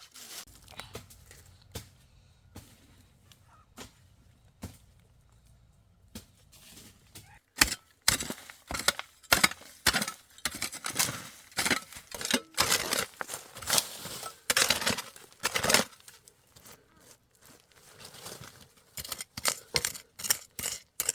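A digging tool striking and tearing into earth and roots while a banana plant is dug up: scattered light knocks at first, then from about eight seconds a quick run of hard strikes, several a second, pausing briefly and starting again near the end.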